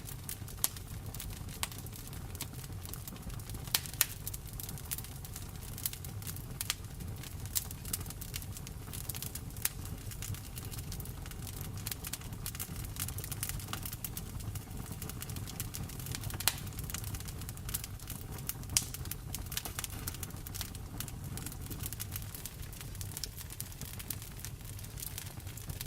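Wood fire in a fireplace crackling, with irregular sharp pops, a few much louder than the rest, over a low steady rumble.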